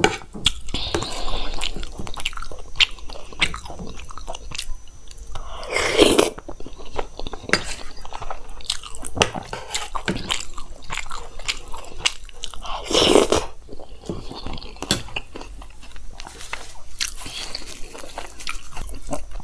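Close-miked eating sounds: dahi bhalla with crunchy sev being chewed, with a steel spoon scraping and clinking in a steel bowl. Many short crunches and clicks run throughout, and two longer, louder mouth sounds come about six and thirteen seconds in.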